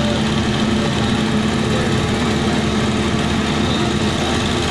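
An engine running steadily at a constant speed, a loud even hum with no change in pitch.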